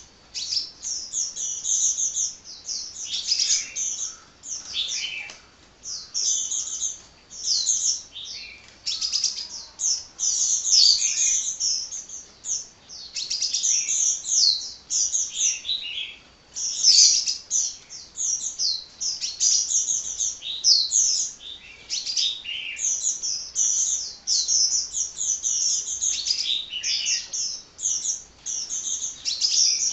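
A sunbird ('kolibri') singing without letup: rapid, high twittering and chirping phrases that follow one another with only short breaks.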